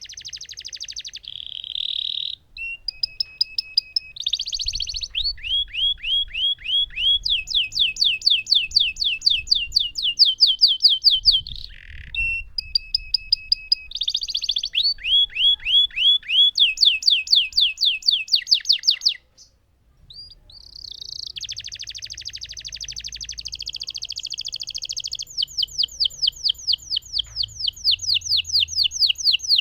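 Lemon domestic canary singing a long song of rapid trills and rolling phrases, each run a quick series of repeated notes, with a short pause a little past the middle.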